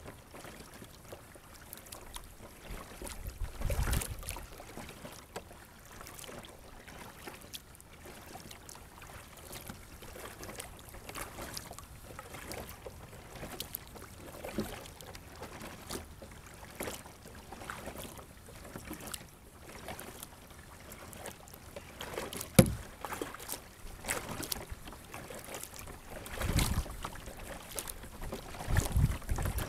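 Water sounds around a plastic sit-on-top kayak on a lake: soft splashing and lapping with scattered small ticks and knocks against the hull. A few louder low bursts come and go, and one sharp knock sounds about two-thirds of the way through.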